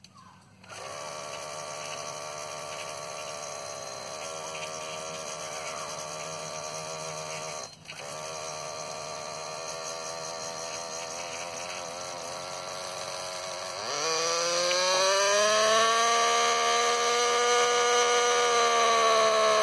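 Norvel .061 two-stroke nitro glow engine of a small RC helicopter, running steadily. About two-thirds of the way through the pitch rises and it gets much louder as it is throttled up, then it holds at the higher speed.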